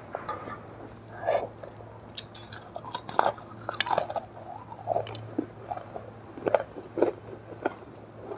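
Close-up chewing and biting: a person eating a fried Indian snack by hand, with many short, sharp wet mouth clicks spread through, over a faint steady low hum.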